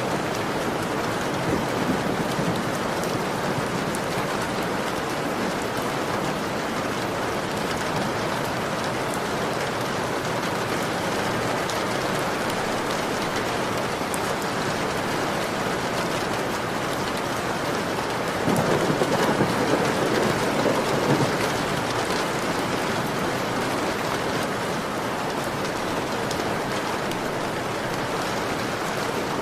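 Heavy rain falling on a window: a steady, dense hiss, with a louder surge lasting about three seconds about two-thirds of the way through.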